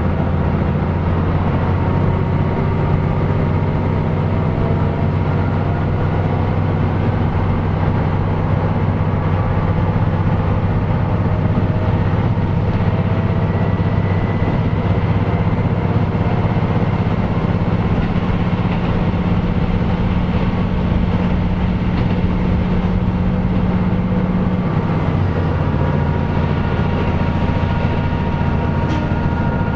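KiHa 125 diesel railcar running, a steady low engine drone with wheel and track noise. About 25 seconds in, the engine note changes and its higher hum drops away.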